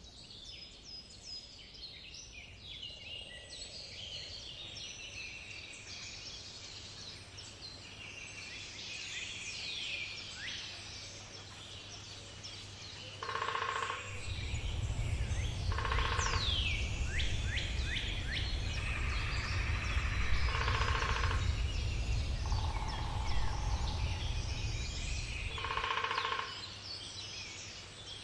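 Woodpecker drumming in short rolls on wood every few seconds, over a chorus of songbirds chirping and trilling. A low rumble runs beneath the middle stretch.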